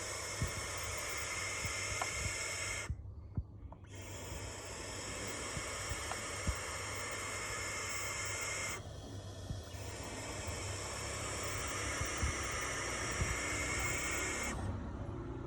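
Barn owls screaming: long, harsh, hissing screeches, each lasting several seconds, with short breaks about three and nine seconds in.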